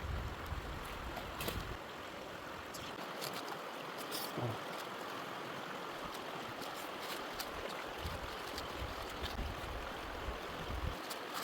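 Open wood fire hissing steadily, with scattered sharp crackles and pops, and wind buffeting the microphone at the start and again near the end.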